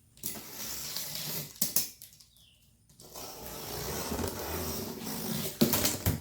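Cardboard shipping box being opened and handled: two stretches of rough scraping and rustling with a few sharp knocks, the longer stretch from about three seconds in.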